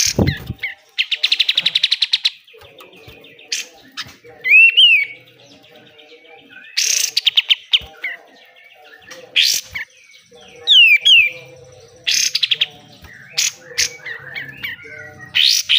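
Kapas tembak bulbul calling energetically: harsh rasping 'besetan' bursts and fast rattling trills, broken by short rising whistled notes. A low thump sounds right at the start.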